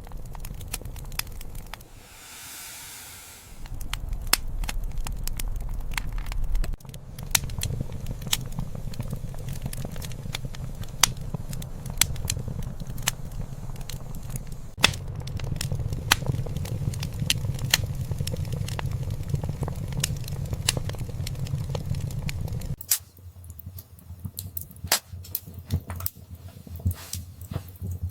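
Wood fire crackling, with many sharp pops and snaps over a low, steady rumble of flames. There is a short hiss about two seconds in, and the rumble drops away near the end while the crackling continues.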